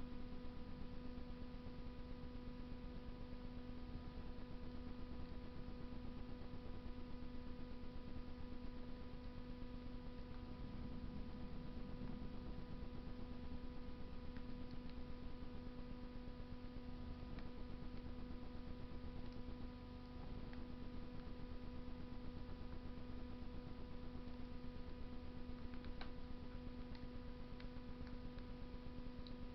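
Wood fire burning in a Russian masonry stove, with a few faint, scattered crackles. A steady electrical hum runs under it and is the loudest part.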